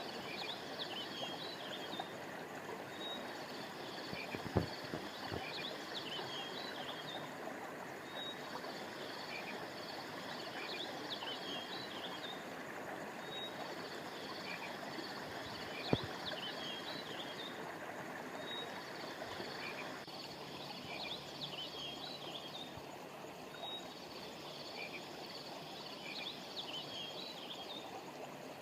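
A river or stream flowing steadily, under clusters of high chirping animal calls that recur every few seconds. There are two sharp clicks, one about four seconds in and one about sixteen seconds in. About twenty seconds in, the upper part of the water sound drops away.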